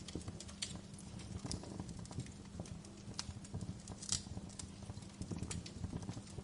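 Wood fire burning in a fireplace, crackling with irregular sharp pops over a low rumble of flames, one pop louder than the rest about four seconds in.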